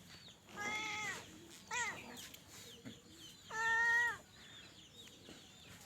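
Domestic cat meowing three times: a drawn-out meow about half a second in, a short one near two seconds, and a longer, level-pitched meow, the loudest, past the middle.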